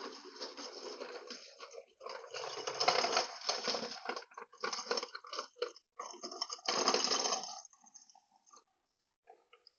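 Trolley wheels rattling loudly over a rough ramp and walkway, in uneven bursts of clatter that are loudest about three seconds in and again about seven seconds in, then dying away to a few faint clicks.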